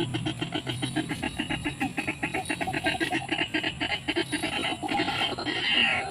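White-breasted waterhen calls: a fast run of short, even croaking notes, about eight to ten a second, with louder, harsher calls near the end.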